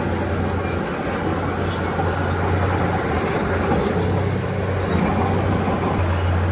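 Diesel engine of a Komatsu D31P crawler bulldozer running steadily under work, a continuous low drone with mechanical clatter above it.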